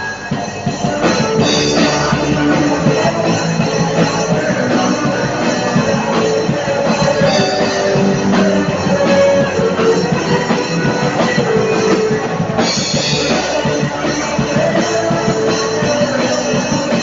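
Drum kit played along to a rock-style band recording with guitars, a steady full-band passage with no vocals; a cymbal crash brightens the sound about three-quarters of the way through.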